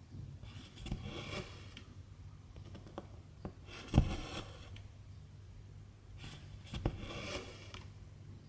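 Silk embroidery thread drawn through cross-stitch fabric in short hissing pulls, about three in all, with sharp taps of the needle among them. A low steady hum lies underneath.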